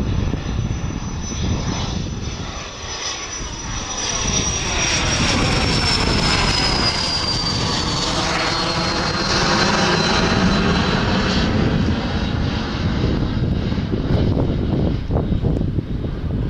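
Embraer ERJ-190SR jet airliner passing with its General Electric CF34-10E turbofans running: a high fan whine that drops in pitch as the aircraft goes by, over the engines' steady rush. The sound swells to its loudest in the middle of the passage.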